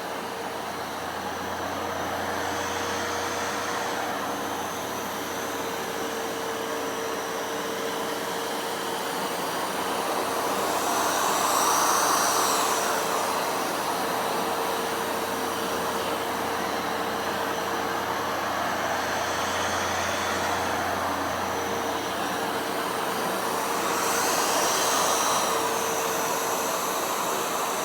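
A vacuum cleaner motor runs steadily with a constant hum. It swells louder about halfway through and again near the end.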